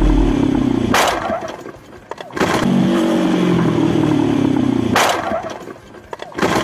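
Motorcycle engine running with its pitch falling, then a sharp crash as the bike slams into the back of a car. The engine-then-impact sequence comes twice.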